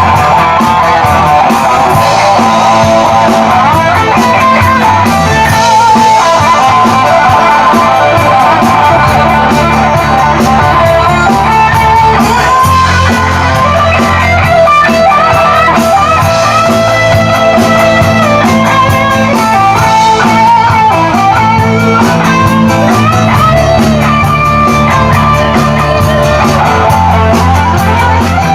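Live rock band playing an instrumental passage: a lead electric guitar solo with notes bending in pitch over bass guitar and drums.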